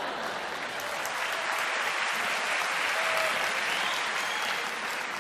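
Audience applauding after a joke, swelling to a peak midway and then easing off.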